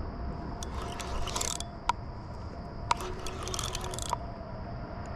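Fishing reel being worked against a hooked catfish: fast mechanical ticking from the reel in stretches, with sharp single clicks about once a second in the middle.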